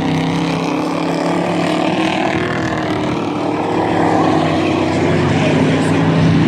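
Dirt-track race trucks' engines running at racing speed around the oval, a steady drone that swells slightly in the second half.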